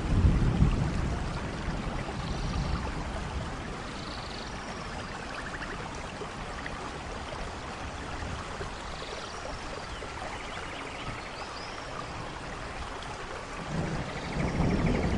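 Steady rainfall on a rainforest canopy, with a low thunder rumble at the start and another building near the end. Faint short chirps are heard now and then.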